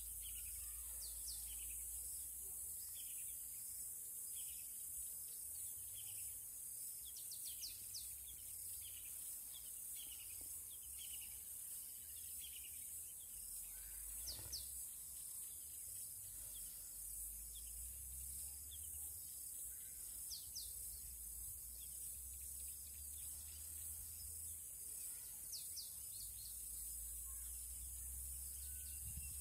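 Birds calling with many short, quick, downward-slurred chirps, scattered throughout, over a steady high hiss and a low rumble.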